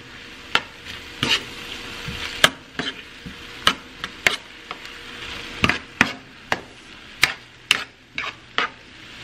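Metal spoon stirring chicken, onions and ketchup in a nonstick frying pan. About a dozen irregular clicks and scrapes of the spoon against the pan sound over a light sizzle from the pan.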